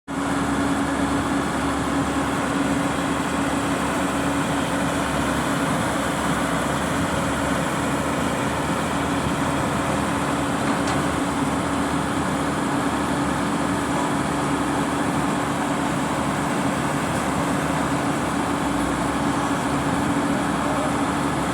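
Heavy diesel construction machinery running steadily at constant speed, a continuous drone with a steady humming tone.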